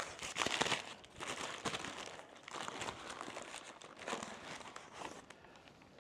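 Takeaway food wrapping being opened by hand: irregular crinkling and rustling, loudest in the first second and fading toward the end.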